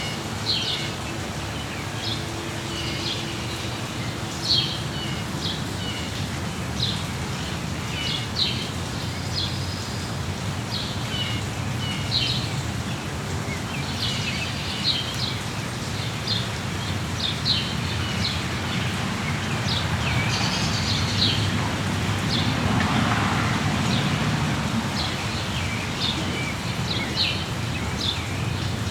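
Small birds chirping and singing in short, frequent calls over a steady patter of rainfall. The rain swells a little louder for a few seconds in the second half.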